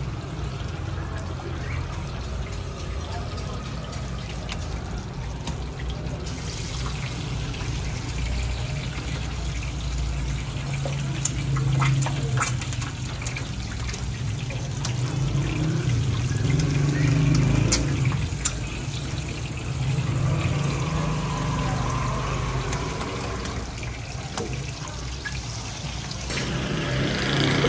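Chapli kabab patties frying in a large wide pan of hot oil, with a continuous sizzle over a steady low rumble. A few sharp clicks sound about halfway through.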